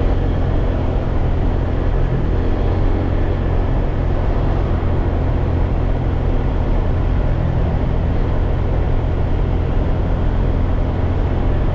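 Honda PCX scooter's single-cylinder engine running steadily under way, a steady low rumble with a haze of road and wind noise over it.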